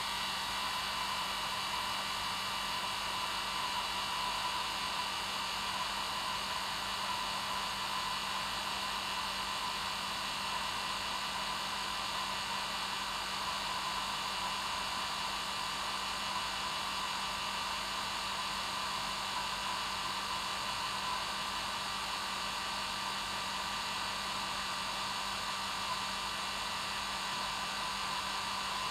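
Hair dryer running continuously on one setting: a steady, unchanging rush of blowing air with a motor hum underneath.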